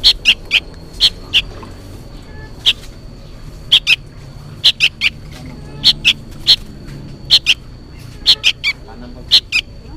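Juvenile sooty-headed bulbul giving short, sharp, repeated calls, often in quick pairs or threes, about two a second with irregular gaps. The uploader takes this noisy calling as the young bird calling to its parent.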